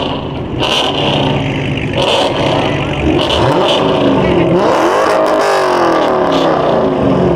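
Loud muscle-car engines revving hard, one rev climbing steeply about four seconds in and then winding back down.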